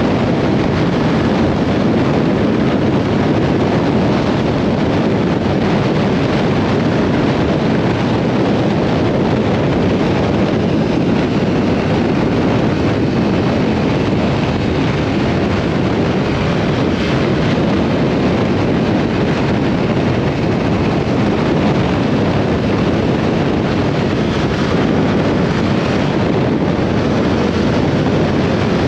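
Riding noise on a Yamaha R7 motorcycle: steady wind rushing over the microphone, with the bike's engine running underneath at an even pace.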